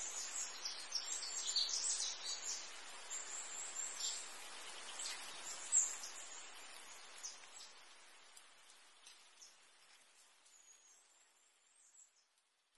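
Birds chirping over a steady hiss, the short high chirps busiest in the first half. The whole sound fades away gradually over the last several seconds.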